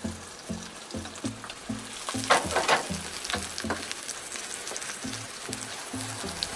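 Sliced onion and garlic sizzling in hot oil in a wok, stirred with a wooden spatula that scrapes against the pan. The scraping is loudest in a few strokes a little past two seconds in.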